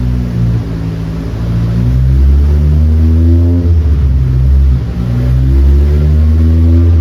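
Toyota 20-valve four-cylinder engine in a Toyota Tazz rally car pulling hard under load on a dyno. Its pitch climbs steadily, falls off about four seconds in, then climbs again.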